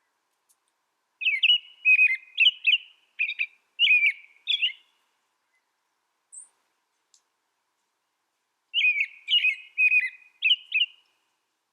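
A small songbird singing two short phrases of quick chirping, whistled notes, about six notes each, the first starting about a second in and the second near the end.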